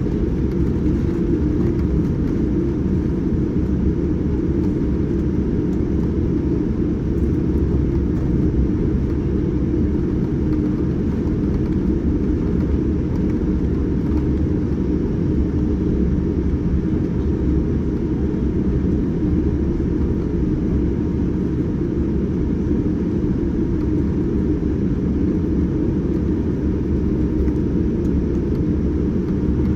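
Steady low rumble of engine and airflow noise heard inside a Boeing 787-9 airliner cabin, holding an even level throughout.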